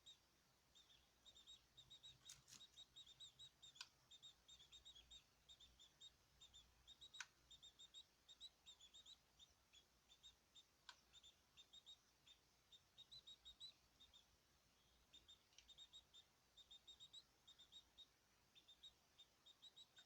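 Small caged birds chirping: many short, high notes in quick clusters throughout, with a few sharp clicks among them.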